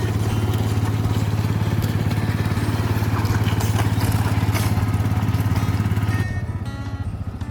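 A small engine running steadily with a low, pulsing hum, dropping slightly in level about six seconds in.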